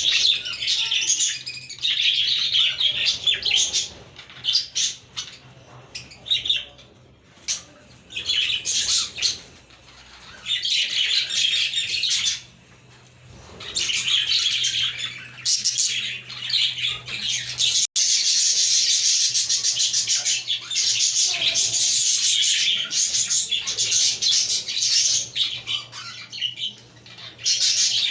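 A flock of budgerigars chirping and warbling in overlapping bouts with short lulls. After an abrupt break about two-thirds of the way through, the chatter runs on without pause. A faint steady hum sits underneath.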